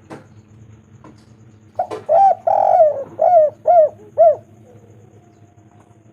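Spotted dove (tekukur) cooing one phrase of about six notes, starting about two seconds in: short coos that each rise and fall in pitch, with one longer drawn-out coo in the middle.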